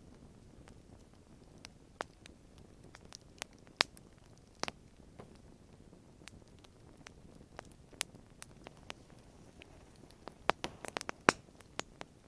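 Wood campfire crackling: scattered sharp pops and snaps at irregular intervals over a faint low hum, with a quick run of louder pops near the end.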